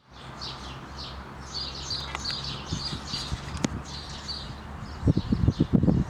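Small birds chirping over and over, high-pitched, above a steady low hum from an idling diesel locomotive engine. About five seconds in, loud rough low rumbles take over.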